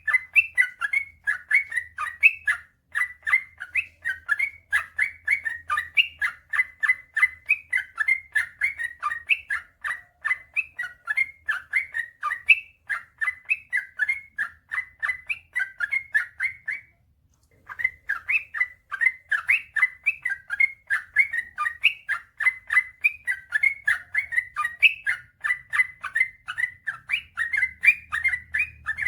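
Yellow-vented bulbul (trucukan) singing a long, unbroken run of short, rapid chirping notes, about four a second, with one brief pause about seventeen seconds in.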